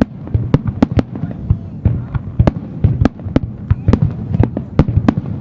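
Fireworks shells bursting in rapid succession, several sharp bangs a second overlapping one another over a continuous low rumble, as in a fireworks finale barrage.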